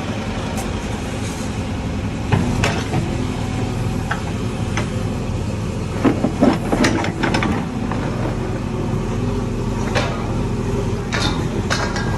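JCB 3DX backhoe loader's diesel engine running steadily while digging, with several sharp knocks, the loudest cluster about six to seven seconds in.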